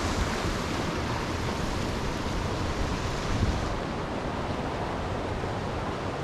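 Steady rush of a creek waterfall running past and beneath ice, a continuous hiss of falling water that dulls slightly about four seconds in.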